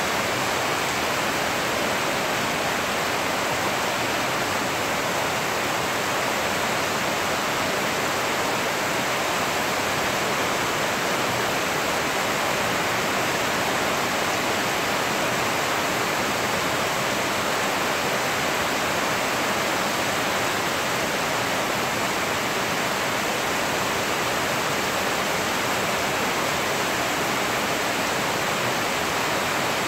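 Steady rain falling, an even hiss that holds without breaks or changes.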